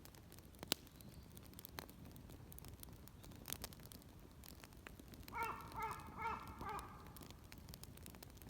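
A crow cawing about four times in quick succession, over scattered sharp clicks and pops.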